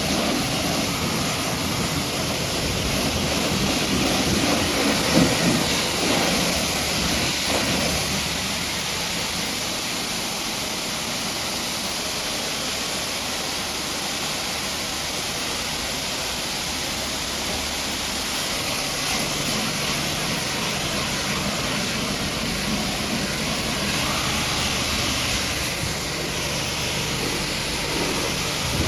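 Steady hiss of a pressure washer's water jet spraying.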